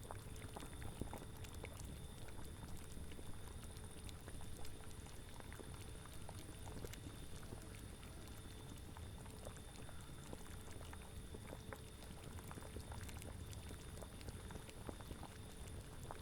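Cauldron bubbling at a steady boil, with many small pops of bursting bubbles over a steady low rumble.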